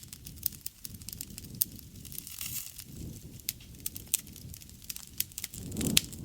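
Wood fire burning, crackling with many sharp, irregular pops over a soft low rush of flame that swells twice.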